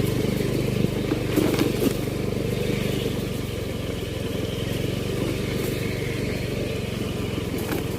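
An engine running steadily at an even pitch, with a few sharp clicks or knocks about a second and a half in.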